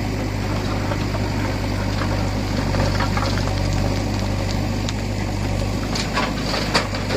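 Heavy diesel engine running steadily at a constant speed, with a few sharp clicks or knocks about six to seven seconds in.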